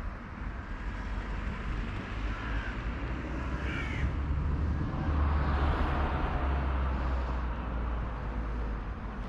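Crows cawing a couple of times over a steady low rumble.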